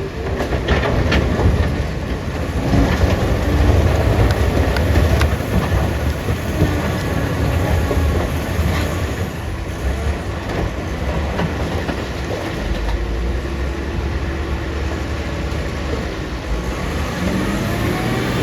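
Heavy diesel earthmoving machinery running with a steady low rumble and rattling, with sharp knocks within the first two seconds and again about five seconds in, typical of rock being handled by a wheel loader.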